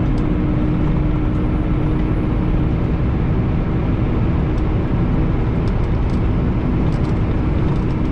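Semi truck's diesel engine running in a lower gear just after a downshift, with road noise, heard inside the cab as a steady, even rumble.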